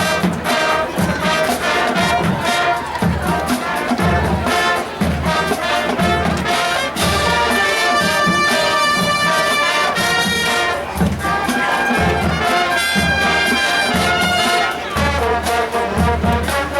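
High school marching band playing: brass section with trumpets and trombones over a steady bass-drum beat, swelling into long held brass chords partway through.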